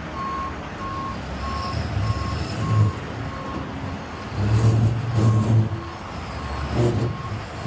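Tow truck's reverse alarm beeping steadily, about twice a second, over the truck's engine rumble, which swells several times.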